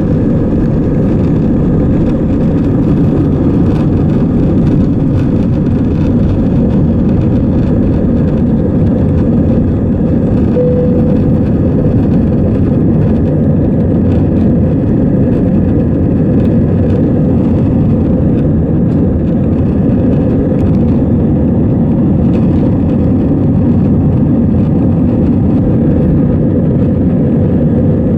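Airbus A320's engines and airflow heard from inside the passenger cabin as a steady, loud low rumble that holds level throughout, with a brief faint tone about ten seconds in.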